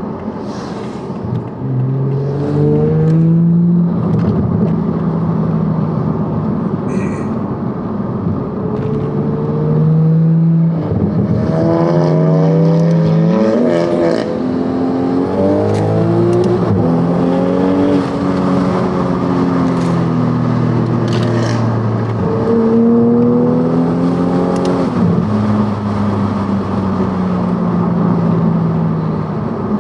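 Toyota Supra B58 turbocharged inline-six with an AMS catted downpipe and RK Titanium exhaust, driving. The engine note holds steady while cruising, then climbs several times under throttle and steps down as gears change.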